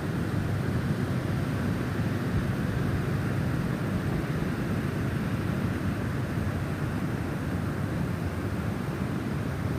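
Snowstorm wind blowing as a steady low rushing rumble, with no distinct gusts or chimes standing out.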